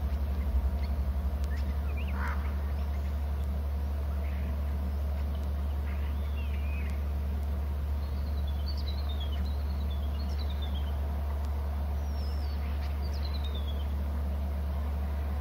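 A steady low hum with faint bird calls over it: a curved call a little before the middle, then a series of short descending calls in the second half.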